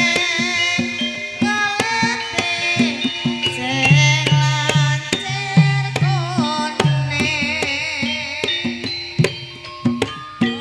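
Jaranan gending, Javanese horse-dance music: hand-drum (kendang) strokes in a fast, busy pattern with deep booming beats, under steady pitched gamelan-style notes. A wavering melody line comes in about six seconds in and again a little later.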